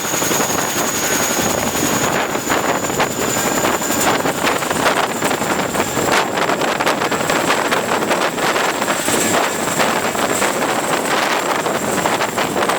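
Helicopter running, a steady high whine over a rapid chopping rush of noise.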